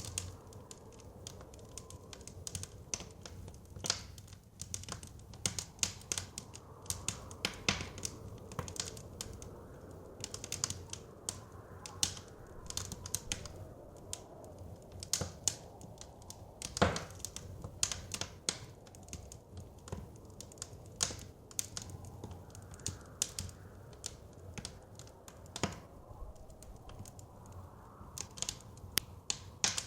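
Wood fire crackling, with irregular sharp pops and snaps, a few of them louder. Under it runs a low, steady rush of blizzard wind that swells slowly.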